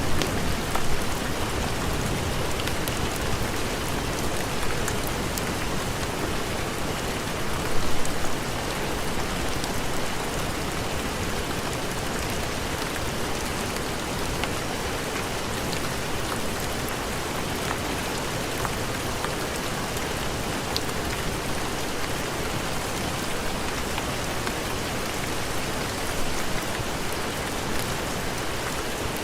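Steady heavy rain, an even dense hiss, with a brief louder surge about eight seconds in.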